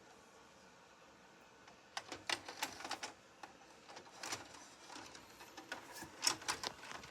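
Several bursts of plastic and mechanical clicking and clatter, starting about two seconds in: a VHS cassette being handled and loaded into a VCR.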